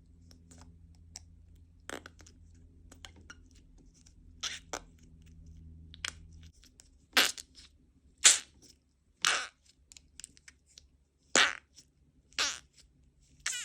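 Toilet putty being pushed into its pot, giving off short squelching fart noises. Faint clicks and handling come first, then six short, loud bursts about a second apart in the second half.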